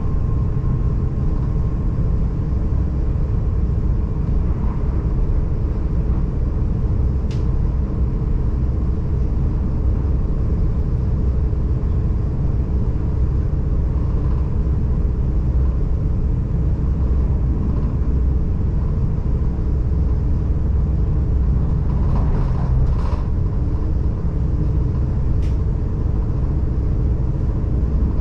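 Steady low rumble of an S-Bahn train running at speed, heard inside the passenger car, with a couple of faint clicks.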